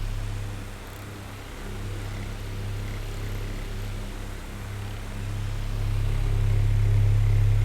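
Oscillating electric fan running: a steady low hum with a soft airy whir. It fades and swells as the fan head sweeps away and back, quietest about a second in and loudest near the end.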